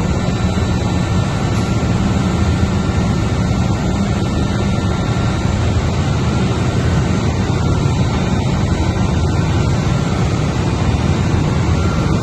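Ship's engine-room machinery running with a loud, steady drone, heaviest in the low range.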